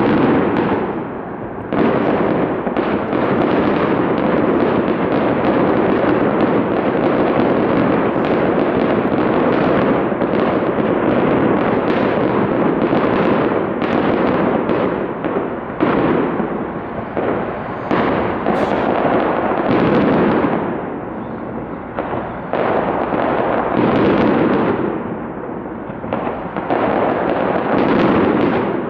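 Fireworks display: dense, continuous bursts of aerial shells and crackling, easing briefly a few times before picking up again.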